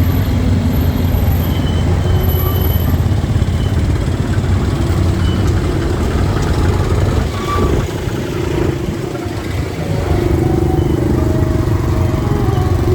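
Motorcycle engine and road noise while riding in city traffic, with a short lull a little past halfway.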